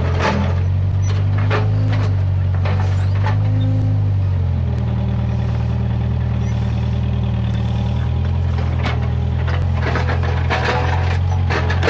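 Case 580G backhoe loader's diesel engine running steadily under work, its note dropping slightly about four seconds in. Sharp cracks and knocks come and go over it, mostly near the start and the end.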